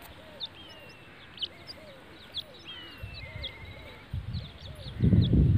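Birds chirping outdoors: many short high chirps and a wavering whistled note. A low rumbling noise comes in about four seconds in and is the loudest sound near the end.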